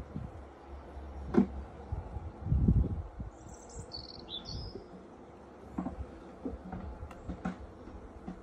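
A bird chirps briefly about halfway through, a quick run of high notes. There are low rumbles and a few sharp light knocks around it.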